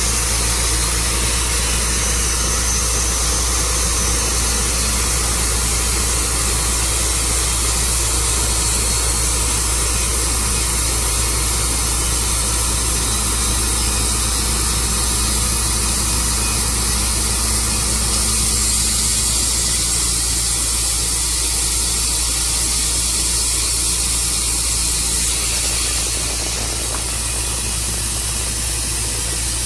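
Tru Cut sawmill running steadily while sawing a walnut log: an even, loud machine noise with a steady low hum.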